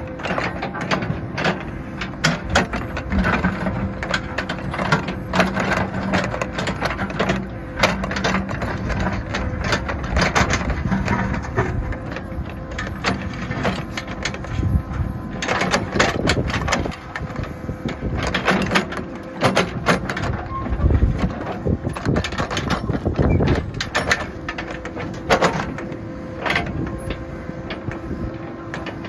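Backhoe engine running with a steady hum, under frequent knocks and clatter from the digging.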